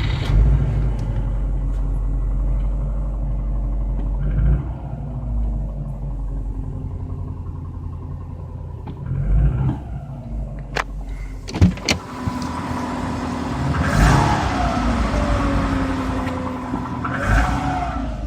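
Car engine running just after a cold start at about −1 °C, its oil treated with X-1R additive, revved up briefly about four times, twice near the end with a rising and falling whine. Two sharp clicks come a little past the middle.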